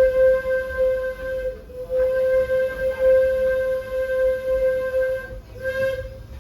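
Steam locomotive whistle blowing one long, steady single-pitched note over the low rumble of the train, broken by short gaps about a second and a half in and near the end.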